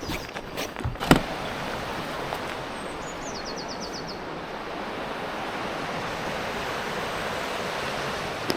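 Steady rush of flowing river water at the water's edge, with a few knocks in the first second and a brief high-pitched run of ticks about three seconds in.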